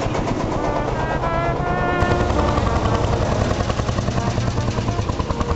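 Vintage tractor engine running with a steady, rhythmic chugging beat that grows denser about two seconds in.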